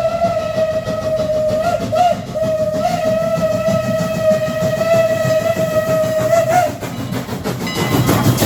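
Canadian National #89's steam whistle, a Pennsylvania banshee whistle, blowing one long steady blast that wavers briefly twice and cuts off about two-thirds of the way in. The rumble of the passing train follows, with wheel clatter on the rails near the end.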